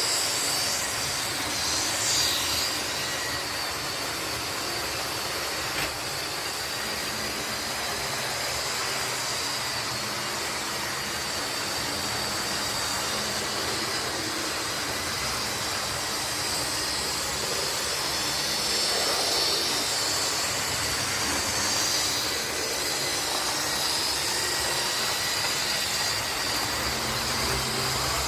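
Model class 37 and class 47 diesel locomotives running on a model railway layout: a steady running noise with a high whine and a low hum throughout.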